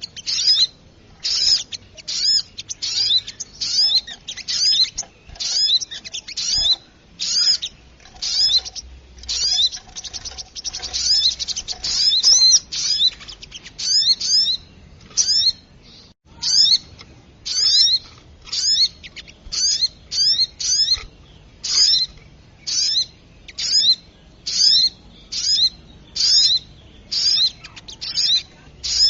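Spiderhunter (sogok ontong) calls from a bird-lure recording: sharp, high-pitched chirps repeated about one to two times a second, with a few brief gaps between runs.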